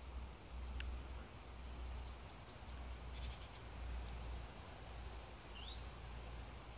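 A small bird chirping a few short high notes, twice in a little run, over a low rumble on the microphone.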